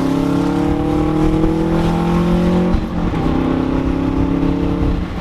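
Car engine accelerating, its pitch rising slowly, then dropping at a gear change a little under three seconds in and running on steadily.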